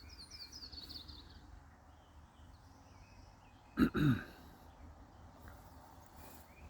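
A bird's short trill of high notes stepping down in pitch in the first second. About four seconds in, a person gives a brief two-part throat-clearing grunt that falls in pitch, the loudest sound here.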